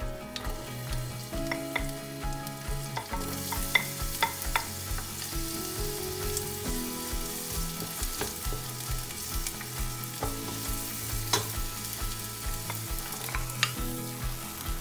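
Chopped onion sizzling in hot oil in a stainless steel pot; the sizzle starts about three seconds in. A wooden spoon stirs it and knocks sharply against the pot a few times. Background music with a steady beat plays underneath.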